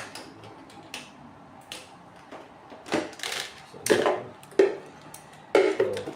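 Irregular clicks and knocks of hands handling small equipment and plugging in a power supply, with a denser cluster of clunks about three to four seconds in and again near the end.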